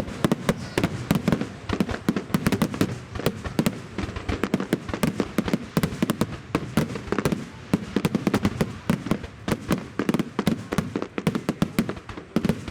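Aerial fireworks going off in a rapid barrage: a dense, continuous run of cracks and bangs, many per second, over a low rumble of shell bursts.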